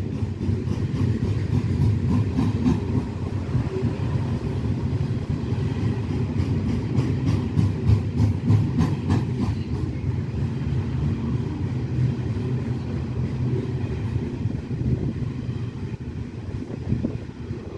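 Loaded coal wagons of a long Pacific National freight train rolling past: a steady low rumble with fast, regular clacking of wheels over the rails, strongest in the first half.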